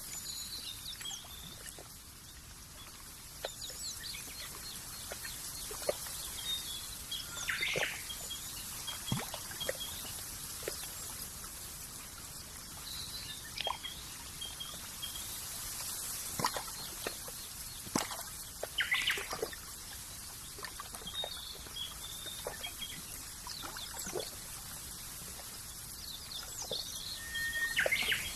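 Countryside nature ambience: small birds chirping in short repeated calls over a steady hiss, with scattered soft clicks.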